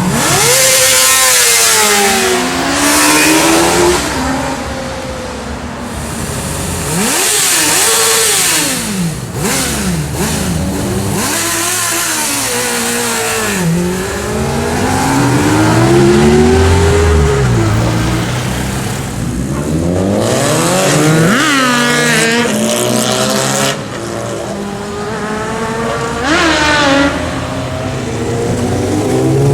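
Sport motorcycle engines revving hard and accelerating past one after another. The engine pitch repeatedly climbs and falls, with sharp high rev-outs about two-thirds of the way through and again near the end.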